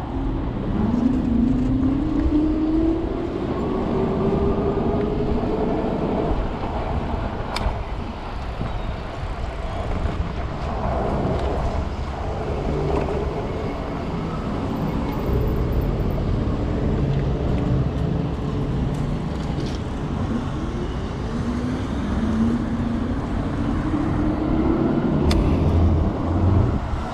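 Electric bike's motor whining and rising in pitch twice as it speeds up, over a steady low rumble of wind and city traffic.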